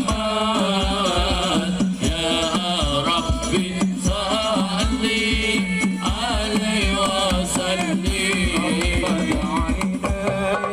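Sholawat devotional singing: a sung melody over a steady, driving hand-drum beat.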